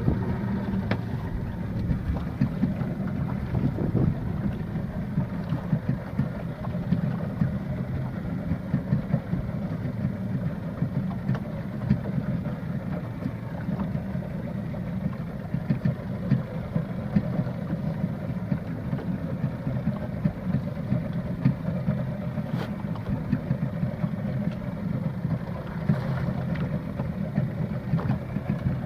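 Fishing boat's engine running steadily with an even low hum.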